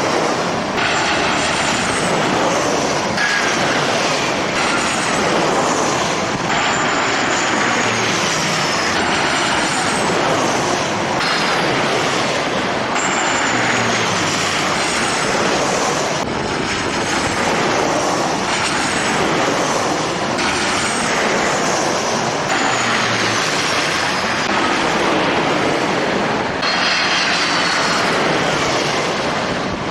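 Jet airliner engines running: a steady rushing noise with high-pitched turbine whines that fall in pitch again and again.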